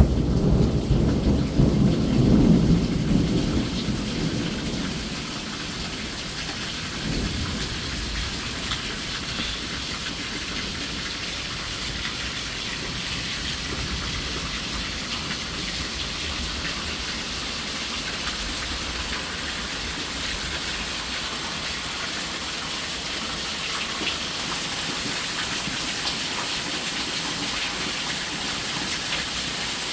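Heavy Florida rain pouring steadily. A roll of thunder rumbles at the start and fades away over the first few seconds.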